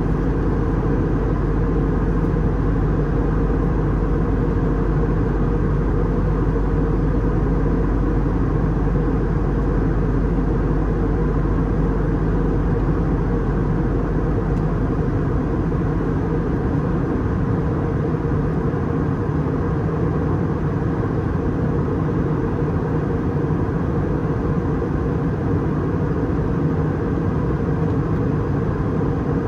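Steady airliner cabin noise aboard an Airbus A320 in descent: a constant rush of air over the fuselage with the engines' drone beneath it. The deepest rumble eases a little about halfway through.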